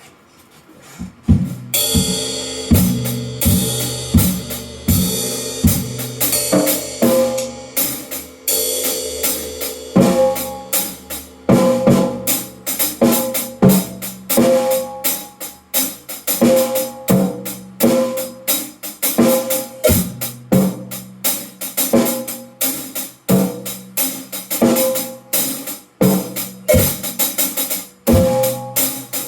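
A drum kit being played: after a quiet first second, playing starts with cymbal crashes and settles into a steady beat of bass drum, snare and toms with cymbals.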